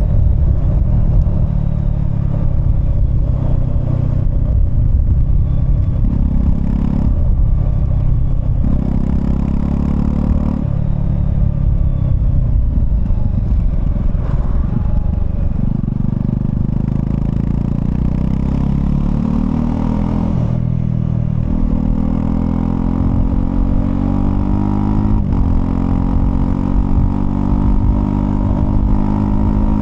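Honda CL250's single-cylinder engine running as the motorcycle is ridden, the pitch dropping and picking up again at several gear changes, then climbing steadily as it accelerates near the end.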